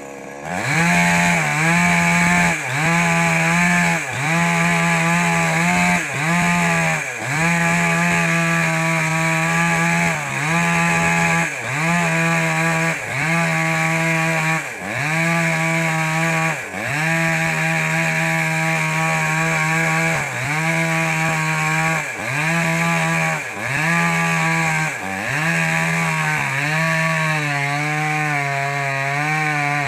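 Small petrol mini chainsaw cutting wood at high revs. Its engine pitch dips briefly about every one and a half to two seconds and recovers each time, then settles lower near the end.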